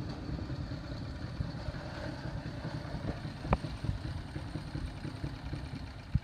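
Small engine of a vintage minibike or go-kart idling with a rough, uneven low rumble, with two sharp knocks: one about three and a half seconds in and one near the end.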